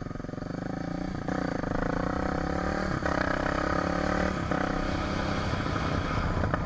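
A vehicle engine running steadily, its note changing a few times as it pulls along.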